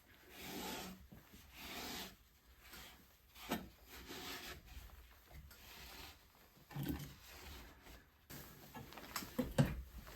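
Something scraping on wood in rough, uneven strokes, with a sharp knock about three and a half seconds in and a few knocks near the end.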